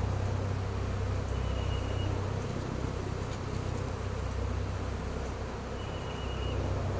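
A large honey bee swarm buzzing: a steady, low, droning hum of many bees in flight and on the hive box. Two faint, short, high tones sound over it, about a second in and again near six seconds.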